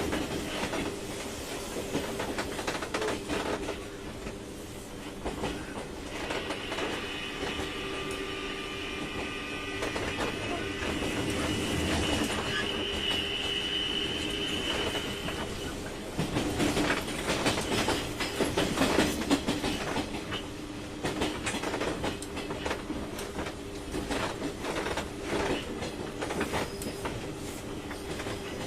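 Interior running sound of a JR 201 series electric train car around a station stop: a steady hum from the car's equipment, with scattered knocks and clatter that grow louder for a few seconds past the middle.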